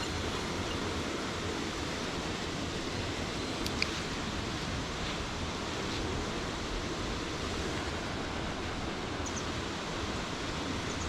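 Steady rush of flowing water from the mountain stream below the dam, an even hiss with no change, and one faint small click a little under four seconds in.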